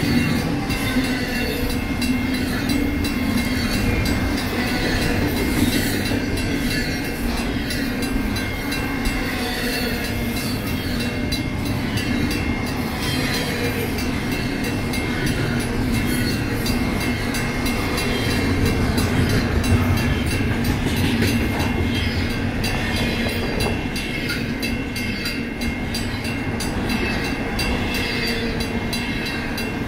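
Union Pacific double-stack intermodal freight train passing steadily at close range, its cars and wheels on the rails making a continuous clattering noise. The grade-crossing bells ring throughout, including a mechanical bell.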